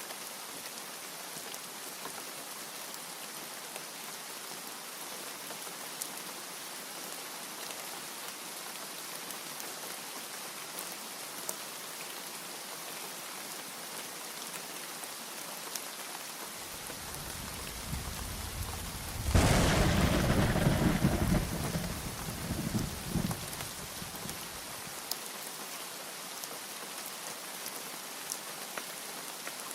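Steady rain with a thunderclap. A low rumble builds about 16 seconds in, breaks into a loud crack about 19 seconds in, then rolls on and dies away about 25 seconds in.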